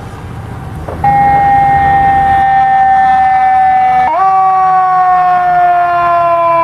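Fire engine siren: a loud wailing tone that cuts in about a second in and sinks slowly in pitch, then jumps sharply higher about four seconds in and sinks slowly again.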